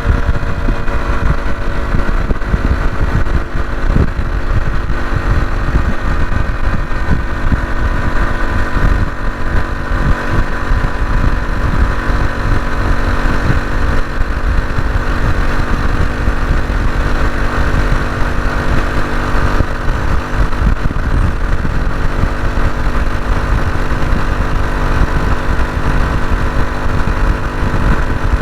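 Honda CT125 Hunter Cub's single-cylinder engine running at a steady pace while riding, under heavy wind buffeting on the microphone from a strong gale.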